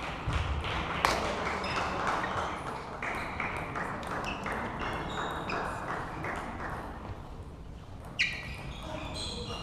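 Table tennis balls striking bats and tables: an irregular run of sharp, short pings, a louder one about a second in and another near the end.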